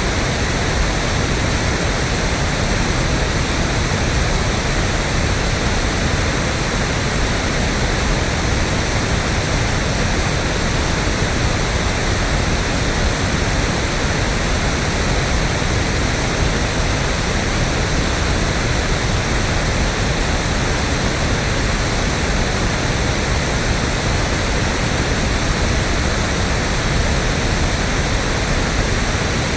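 Steady, electronically generated pink noise: an even, unbroken hiss with more weight in the bass than white noise.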